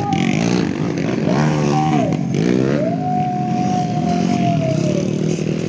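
Dirt bike engine revving: it rises and drops back about a second in, then rises again, holds a steady high pitch for about two seconds and falls away near the end.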